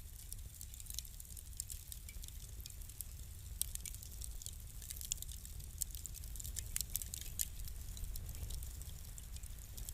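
Wood fire crackling: irregular sharp pops and snaps, several louder ones near the middle, over a steady low rumble of the flames.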